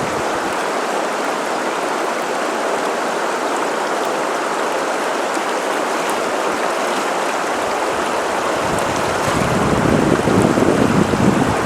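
Steady hiss of running water. Wind buffets the microphone with a low rumble over the last few seconds.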